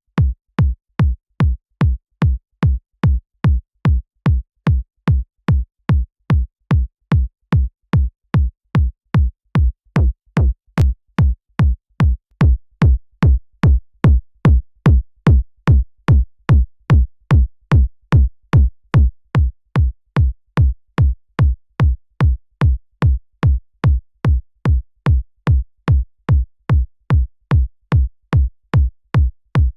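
A synthesized electronic kick drum looping on every beat, about two hits a second, each a deep low hit with a sharp click at its attack. For several seconds in the middle a faint layer sounds between the hits.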